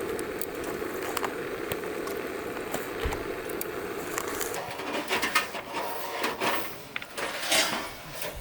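A pot of stew simmering with a steady low bubbling. About five seconds in, the bubbling fades under a run of light clinks and knocks.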